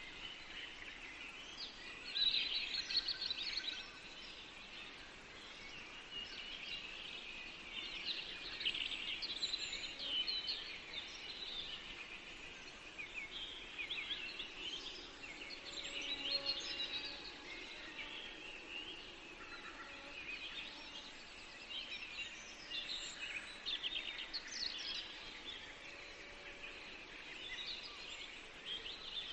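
Several songbirds singing at once in a continuous chorus of quick, high chirps and trills, over a faint steady background hiss.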